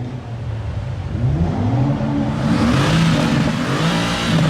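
A car engine revved hard several times, its pitch rising and falling with each blip, starting about a second in and getting louder in the second half.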